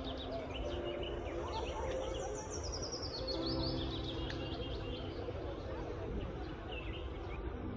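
Birds chirping in repeated quick runs of high, falling notes over steady outdoor background noise.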